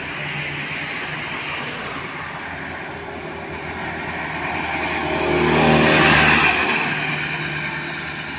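A motor vehicle passing close by on the road: engine and tyre noise grow to a peak about six seconds in, then fade away.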